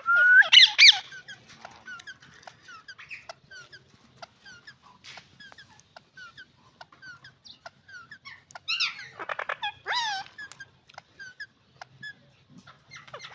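Pair of ringneck parakeets calling: loud, shrill, pitch-bending calls about a second in and again about two-thirds through, with soft short chirps in between.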